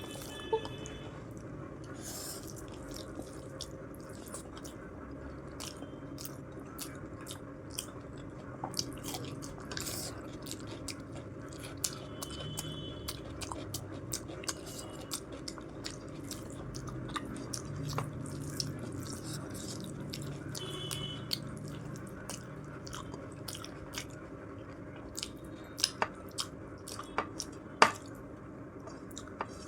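Close-miked chewing and biting, with many short wet mouth clicks and smacks throughout and a few sharper clicks near the end.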